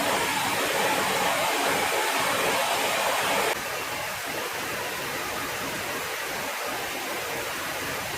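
Steady, loud rushing noise with no distinct tones. It drops suddenly in level and loses some of its hiss about three and a half seconds in.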